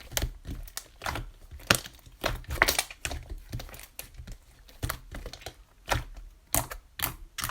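An irregular series of sharp clicks and taps, a few a second, over a low steady hum.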